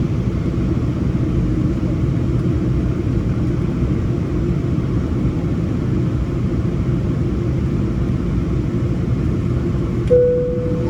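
Steady low rumble inside the cabin of a Boeing 777-300 with its engines running on the ground, under a faint constant hum. Near the end a single clear, steady tone begins.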